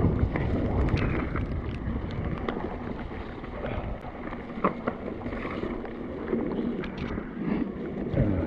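Strong wind buffeting the microphone over the rumble of a mountain bike rolling on rough trail, with scattered sharp clicks and rattles.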